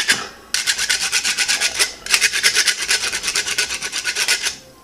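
Wood rasp filed in quick back-and-forth strokes against a hard nylon dog chew, a rough grating, smoothing off the sharp chewed edges. The strokes pause briefly about half a second in, around two seconds in and near the end.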